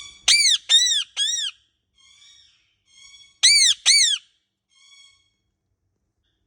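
Indian ringneck parrot squawking: three loud, shrill calls in quick succession, a few softer calls, then two more loud calls, each call rising and then falling in pitch.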